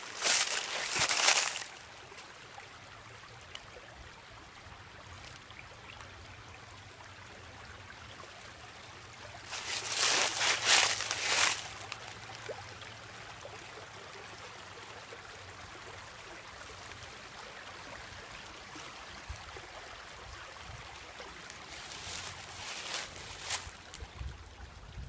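Small woodland stream trickling steadily over rocks, with three short spells of dry leaves crunching underfoot: at the start, about ten seconds in (the loudest), and near the end.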